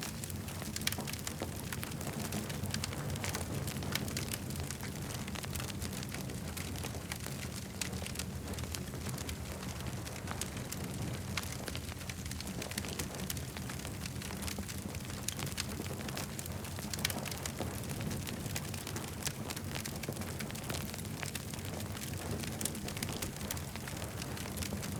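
Campfire crackling, with frequent small sharp pops and snaps over a steady low rumble.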